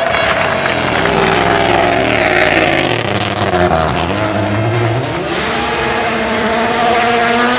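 A rally car's engine at high revs passing by. The pitch drops as it goes past, then climbs again as the car accelerates away.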